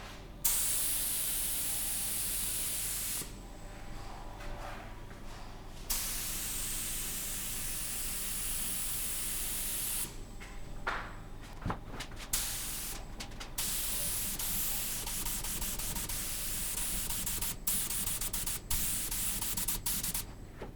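Spray hissing in several bursts of a few seconds each, each starting and stopping abruptly, with short gaps and a few small clicks between them.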